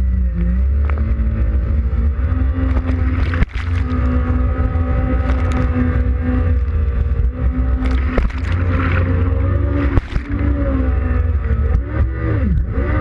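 2005 Yamaha WaveRunner FX Cruiser High Output jet ski engine running under way, with heavy wind and water rumble. The engine note steps up about two seconds in and swings down and up repeatedly near the end. There are two sharp knocks, one about three and a half seconds in and one about ten seconds in.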